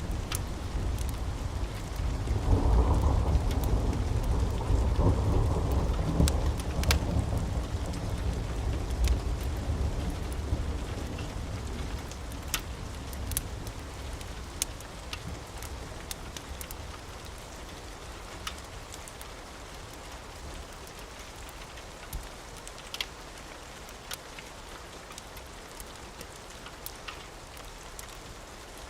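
A long roll of thunder rumbling in about two seconds in and slowly dying away over the next dozen seconds, over steady rain, with scattered sharp ticks throughout.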